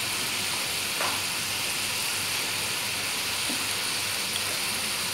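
Strips of chicken frying in a nonstick wok: a steady sizzle.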